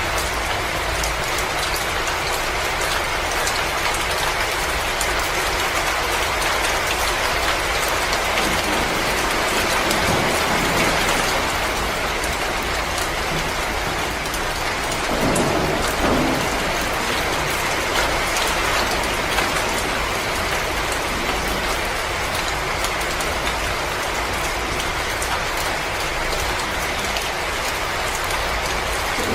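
Wood fire crackling in a fireplace: a steady hiss filled with dense small pops, with a brief louder swell about halfway through.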